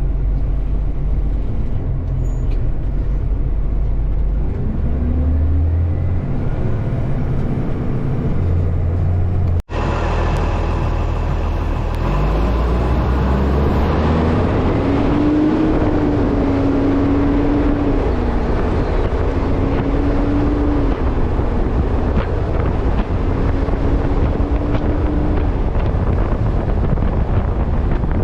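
Acco truck engine running on the road under steady wind noise buffeting a camera strapped to the front of the truck. The engine pitch steps about and climbs as it accelerates in the second half. The sound cuts out sharply for an instant about ten seconds in.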